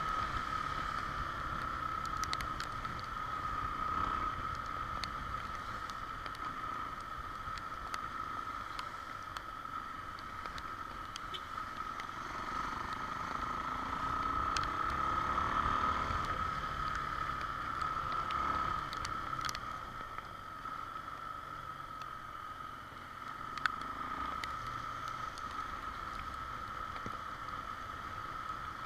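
Honda XR Tornado single-cylinder motorcycle being ridden on the road, its engine running under wind and road noise, with a steady high whine throughout. About halfway through the sound swells and a pitch rises, then settles back.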